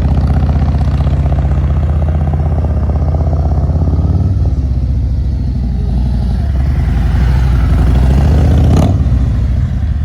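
Motorcycle engine running steadily at low revs, its pitch dipping briefly about four seconds in and rising a little again later, with a short sharp click near the end.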